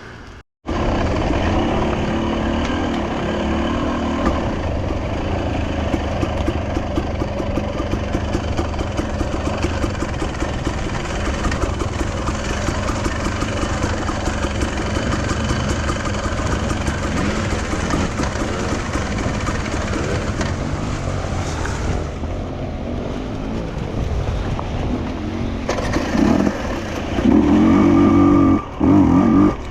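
Enduro motorcycle engine running under way. Its pitch rises and falls as the throttle is worked, and it gets louder in the last few seconds.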